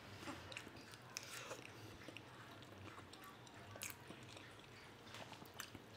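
Faint sounds of a person eating a mouthful of chicken pot pie with crust: soft chewing with a few small clicks.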